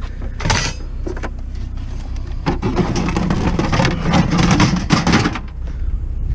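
A vehicle engine running, growing louder for about three seconds in the middle and then easing off, over a steady low hum, with a short hiss-like burst about half a second in.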